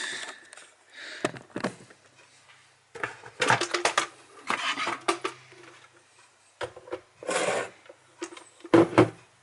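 Kitchen handling sounds while coffee is made: scattered knocks and clinks of crockery and cutlery, with short scraping or rustling stretches in between.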